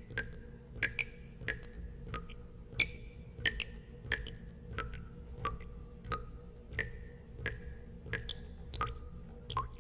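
Water drops falling into water, one after another at an uneven pace of about one to two a second, each a sharp plink with a brief ringing tone that sometimes dips in pitch. A low steady rumble runs underneath.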